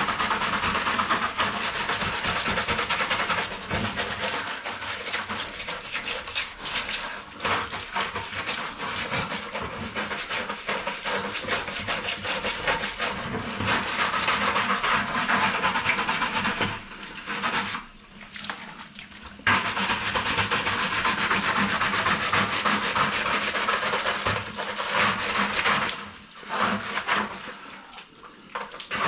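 A brush scrubbing plastic washing-machine parts in quick back-and-forth strokes. It stops briefly twice, once past the middle and once near the end.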